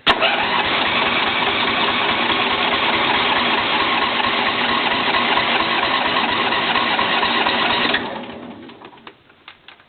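John Deere L120 lawn tractor's Briggs & Stratton engine cranked on its electric starter for about eight seconds without catching, then the starter is released and spins down. It is a cold start after months of sitting, and the owner blames a weak battery for the failure to start.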